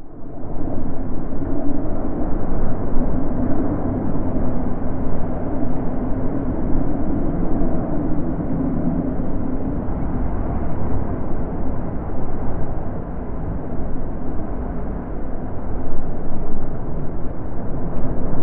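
Wind blowing: a low, full rush that fades in at the very start, then swells and eases in slow gusts.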